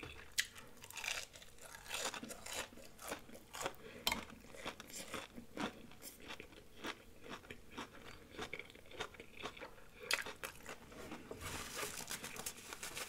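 Close-miked biting and chewing of a breaded fried shrimp: a steady run of small, crisp crunches and crackles.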